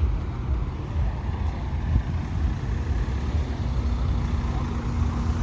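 Car engines running, a steady low rumble, with a faint steady hum joining about halfway through.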